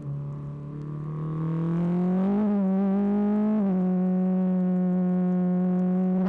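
BAC Mono R's 2.5-litre Ford Duratec four-cylinder engine accelerating: quieter at first, then climbing steadily in pitch and getting louder. About three and a half seconds in the pitch drops once, then it holds a loud steady note. The onboard recording is overdriven and of poor quality.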